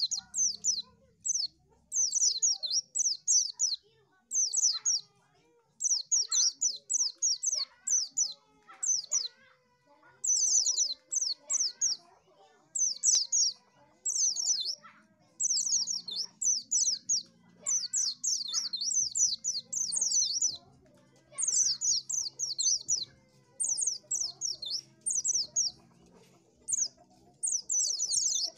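White-eye (pleci) singing: fast runs of high, thin twittering chirps, each run lasting about a second, repeated over and over with short pauses between.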